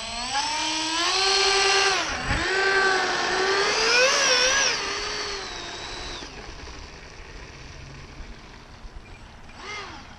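Electric ducted-fan motors of an RC Airbus A320 model running on a 4-cell battery, throttled up into a rising whine. The pitch dips briefly about two seconds in, climbs to its highest about four seconds in, then winds down and fades by about six seconds.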